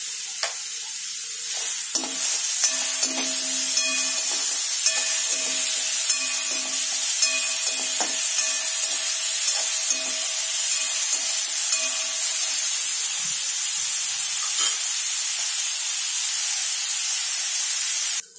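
Grated carrot with green chillies and garlic sizzling in oil in a metal kadai while a spatula stirs and scrapes it around the pan in repeated strokes. The sound cuts off suddenly near the end.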